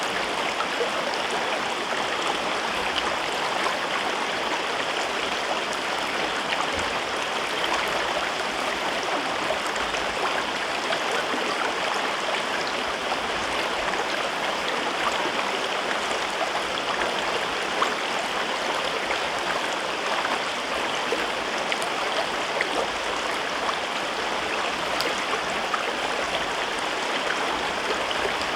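A gorge river flowing: a steady, unbroken rush of running water with fine splashing.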